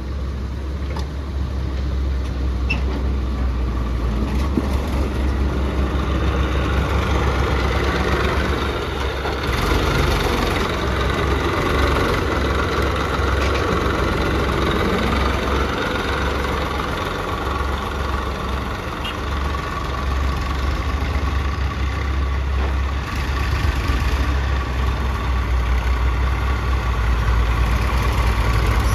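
Heavy diesel engine of a tractor or backhoe running steadily with a deep low rumble.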